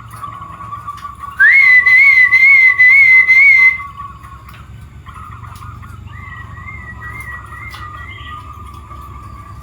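Zebra doves (perkutut) cooing in a continuous wavering stream, with a loud, wavering whistle starting about one and a half seconds in and lasting some two seconds, and a fainter whistle later on.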